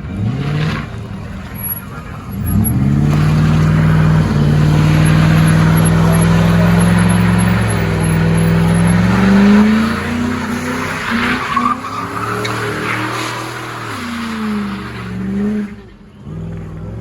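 A car engine revs, then is held at high revs for several seconds, climbing higher about nine seconds in before dropping and wavering, while the tires squeal and hiss as they spin on the pavement.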